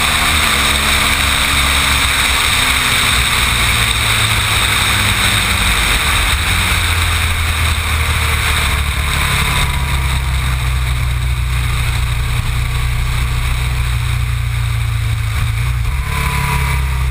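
Aprilia Tuono's big-bore 1127 cc Rotax V990 V-twin engine running at fairly steady revs, with a rushing hiss over it; the revs fall just at the start.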